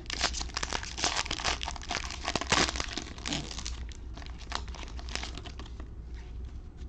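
Trading card pack wrapper being torn open and crinkled, a dense crackling that is loudest in the first three seconds and then thins to softer rustling as the pack is handled.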